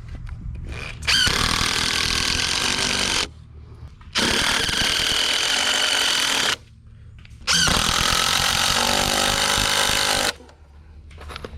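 Power screwdriver driving screws into 4x4 timber, running in three bursts of two to three seconds each with short pauses between.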